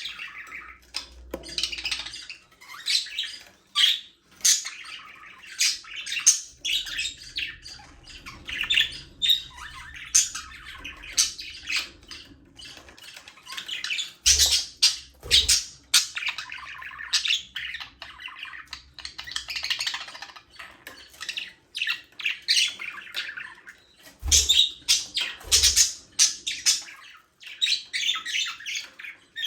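Budgerigars chirping, warbling and squawking over one another in a flock, a busy, continuous chatter of short high calls. A few low thumps come through about halfway and again near the end.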